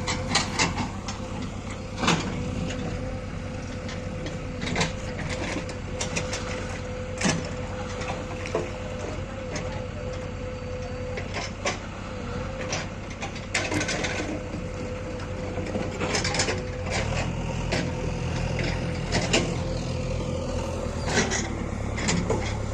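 Heavy diesel machinery running steadily, with a constant whine over the engine hum and irregular sharp knocks and clanks. The engine grows louder about three-quarters of the way in.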